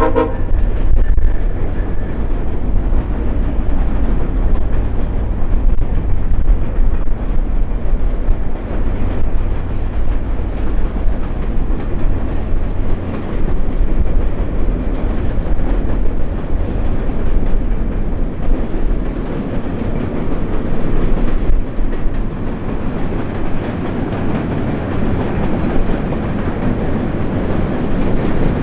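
Train rolling past at close range, a steady rumble of wheels on rail with clickety-clack over the joints.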